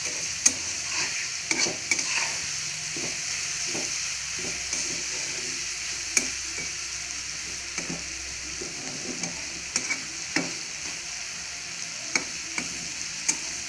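Dried prawns frying in coconut oil in a kadai over a low flame, a steady sizzle. A metal spoon stirs them round the pan, scraping and clinking at irregular moments.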